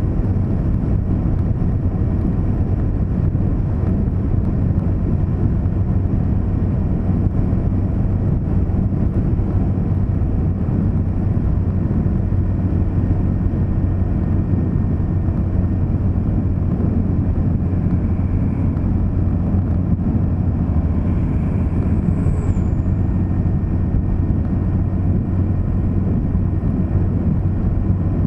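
Steady low rumble of a vehicle driving along a road: engine and tyre noise, heard unchanged throughout.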